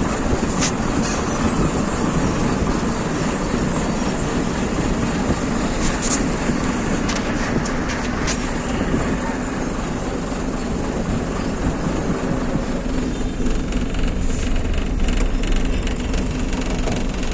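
Truck running, heard from inside the cab: a steady rumble with a few sharp rattling clicks.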